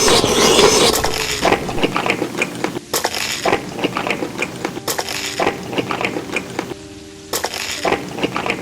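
Close-miked eating: crunchy chewing in repeated bursts, with small clicks and clinks of utensils against dishes.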